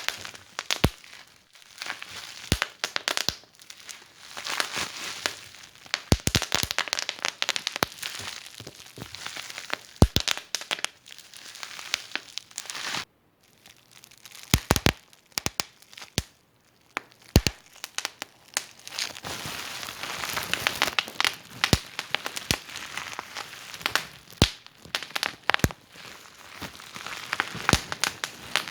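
Wood fire in a fireplace crackling: irregular sharp pops and snaps over a soft hiss, with a short break about halfway through.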